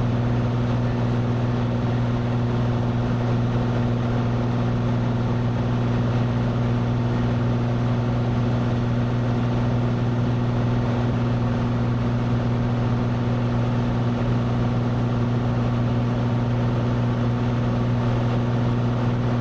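Cessna 182's engine and propeller droning steadily in flight, a constant low hum with no change in pitch.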